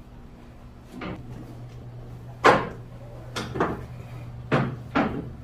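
Footsteps knocking on a warship's steel ladder or stair treads while going down, about six clanks at uneven spacing, the loudest about halfway through, over a steady low hum.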